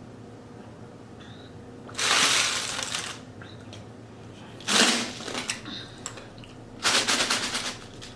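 Ice cubes rattling in a cup of iced tea, in three short bursts of rapid clicking.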